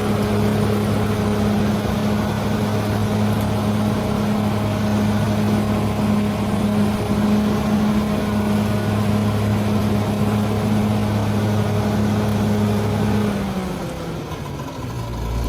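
Bulldozer's diesel engine running at a steady pitch. Near the end its note falls and it quiets briefly before picking up again.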